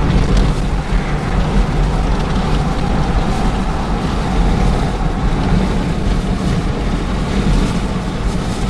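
Steady rumble of a moving vehicle in strong storm wind, with wind noise buffeting the microphone.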